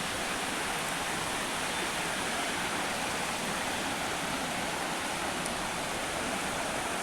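Waterfall: water falling and splashing onto rocks, a steady rushing.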